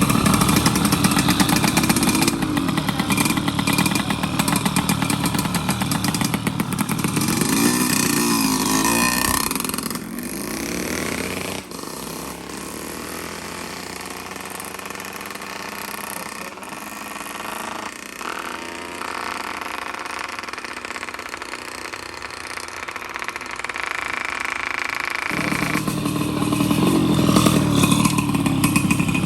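Two-stroke underbone racing motorcycles revving loudly with a wavering pitch. About ten seconds in the sound drops away to a quieter engine note with sliding pitch, then comes back loud near the end.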